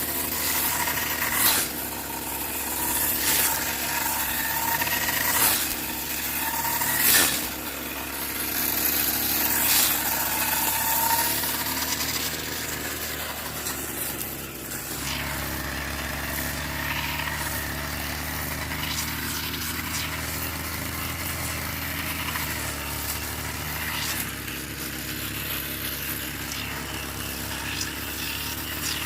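An engine running steadily, with a few sharp knocks in the first ten seconds. From about halfway on it settles into a lower, even drone.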